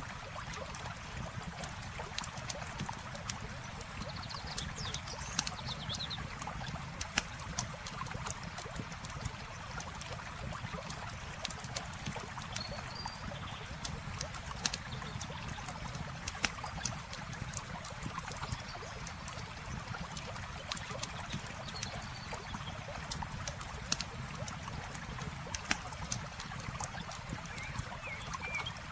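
Campfire crackling, with irregular sharp pops and snaps, over a steady wash of trickling, flowing water. A few faint high chirps come through now and then.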